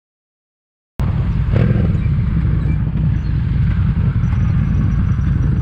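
Dead silence for about the first second, then a Harley-Davidson Street 750's V-twin engine running steadily under way, a low pulsing rumble heard from on the bike.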